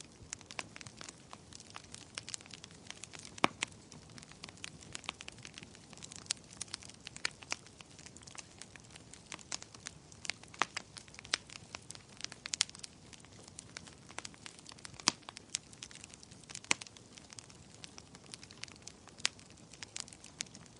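Wood fire crackling in a fireplace: a soft steady hiss of flames under many irregular small snaps, with a few louder pops scattered through.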